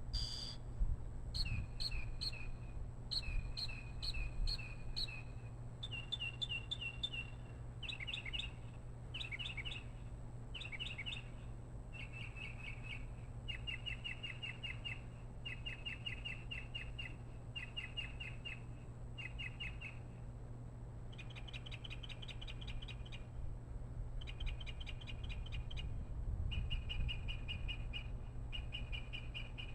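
A bird chirping in quick runs of short, rapid notes, each run lasting a second or two, with brief pauses between runs, over a steady low hum and a faint steady high whine.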